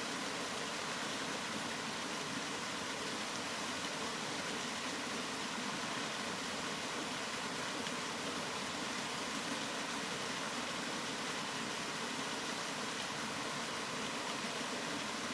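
Continuous rain as a steady, even hiss, with no single drops, thunder or other events standing out.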